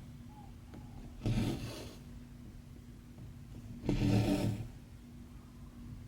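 Embroidery thread being drawn through cross-stitch fabric: two short rasping pulls, about a second in and again about four seconds in, over a faint steady low hum.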